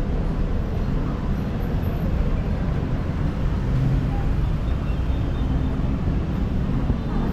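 Steady roar of heavy city road traffic, a dense stream of cars and buses in a rush-hour jam.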